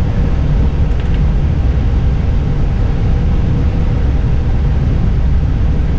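Steady noise inside an Airbus airliner's cockpit while taxiing: low engine and air-conditioning rumble with a faint steady hum, and a few faint clicks about a second in.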